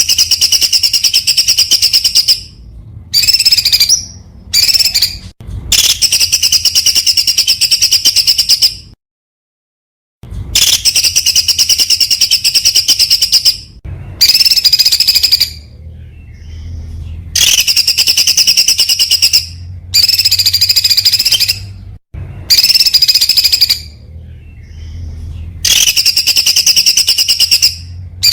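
Songbird singing fast, dense, high-pitched rapid-fire song phrases, each lasting one to three seconds with short pauses between, and a full break about nine seconds in.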